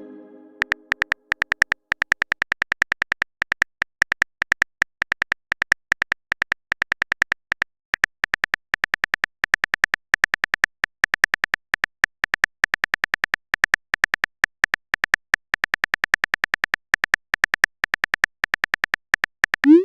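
Typing sound effect of a texting-story app: a long run of quick, light keyboard clicks, several a second, in an uneven rhythm, as a message is typed out.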